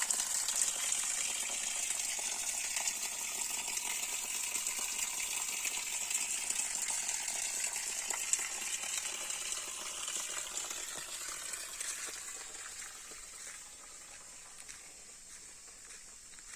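Spring water pouring steadily from a small spout, a constant splashing rush that grows fainter over the last few seconds.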